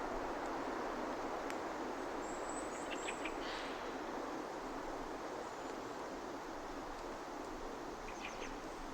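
Outdoor ambience: a steady, even hiss of wind or distant background noise, with a few short high bird chirps about three seconds in and again near the end.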